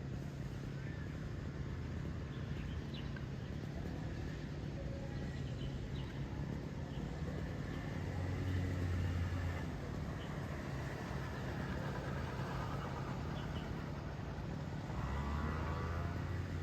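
A steady low mechanical hum, like an engine or motor running. It grows louder about halfway through and again near the end, with a few faint short high ticks over it.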